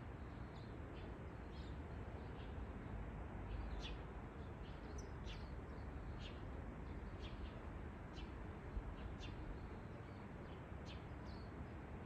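Birds chirping: short, high chirps repeating roughly once a second over a steady low background hiss.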